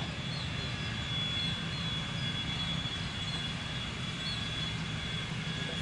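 Airbus A330's jet engines running steadily: a low rumble and rush of noise with a constant high-pitched whine over it. A few faint short chirps sound above it.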